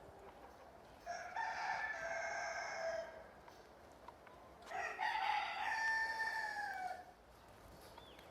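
Rooster crowing twice, two long calls of about two seconds each, the second falling in pitch at its end.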